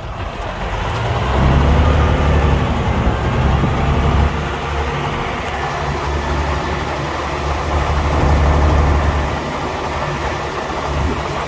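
Heavy diesel engine of earthmoving machinery running with a low, steady engine note that swells about a second and a half in and again near eight seconds.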